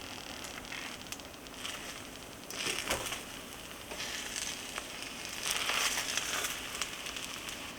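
Kitchen handling noise: two bursts of crinkling, crunching sound, about two and a half and five and a half seconds in, with a few small clicks between.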